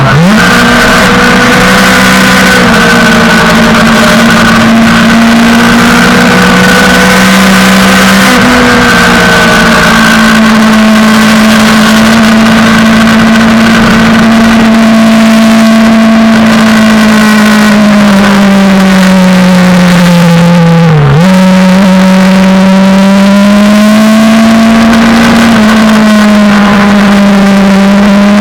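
Suzuki GSX-R600 sportbike's inline-four engine running hard at high revs over a steady rushing noise. The pitch holds fairly steady, drooping slowly and rising again, with a quick sharp dip and recovery about three-quarters of the way through.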